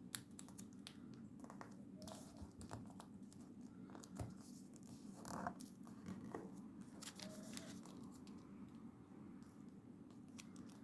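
Faint rustling and crinkling of a square of origami paper being folded and creased by hand, with scattered soft ticks as the paper is pressed flat.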